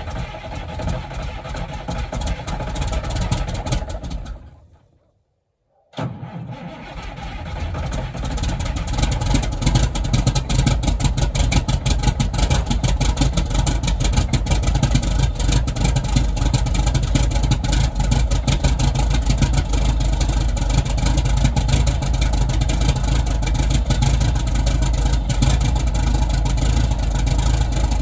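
Caterpillar diesel engine of a Peterbilt 379 truck on a cold start. It runs, fades out about four seconds in, and after a second and a half of silence comes back, building up over a few seconds. It then runs steadily with a deep rumble.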